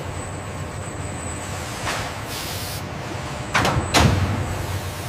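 Industrial machinery humming steadily, with short bursts of air hissing; the loudest two come sharply about three and a half and four seconds in.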